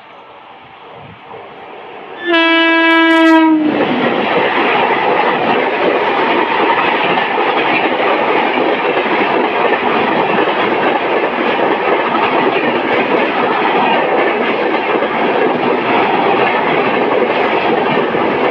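An Indian Railways WAP7 electric locomotive horn sounds once for about a second, its pitch dropping as it ends. A train then passes close, with loud steady wheel and rail noise through the rest of the stretch.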